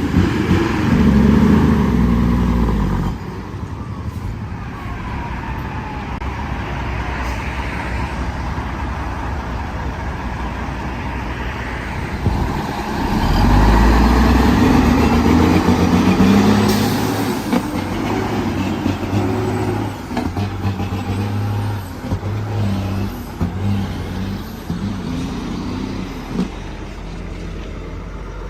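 Motor vehicle engine running under load, surging louder near the start and again about halfway through, between steadier stretches.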